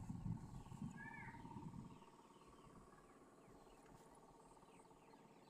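Faint rural evening ambience. A single arching bird chirp comes about a second in, and faint short chirps of small birds or insects follow through the rest. Low, uneven rumbling, like wind on the microphone, fills the first two seconds.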